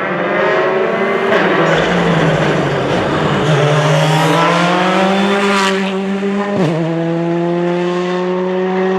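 Rally car engine pulling hard, its pitch rising as it accelerates. There is a gear change about a second in, another climb through a gear, and a short sharp shift about two-thirds of the way through, after which it holds a steady high pitch.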